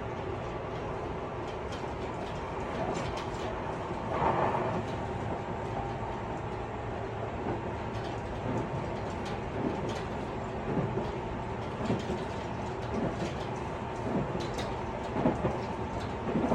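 Tobu 50090 series electric train running at speed, heard inside a motor car: a steady rumble of wheels on rail with a steady hum. There is a louder burst about four seconds in, and regular thumps about once a second through the second half.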